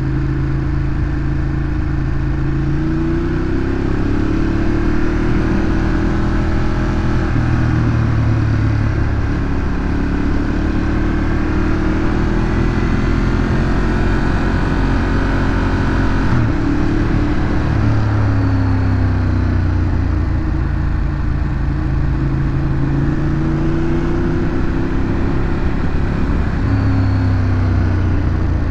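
Ducati Monster 821's Testastretta V-twin through its stock exhaust, ridden along with the engine note rising and falling as the throttle is opened and eased off, and a sudden drop in pitch partway through.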